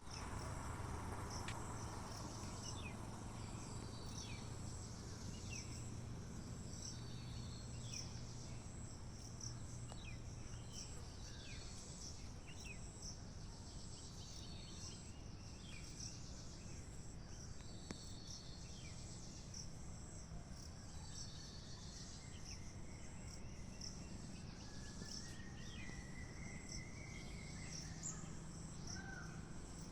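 Steady high-pitched insect chorus, like crickets, with small birds chirping every second or two over it, and a longer bird call near the end.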